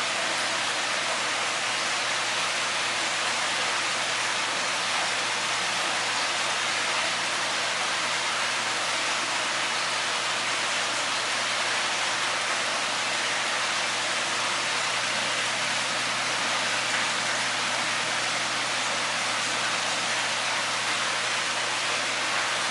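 Steady rushing noise like running water or rain, unchanging throughout, with a faint low hum beneath it.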